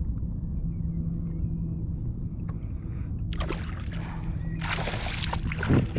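Water splashing at the side of a kayak, two loud splashes in the second half, over a steady low rumble of wind on the microphone.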